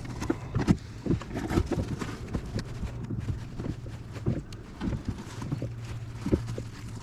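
Irregular knocks and taps of a knife cutting a strip from a frozen cuttlefish for bait, over a steady low hum.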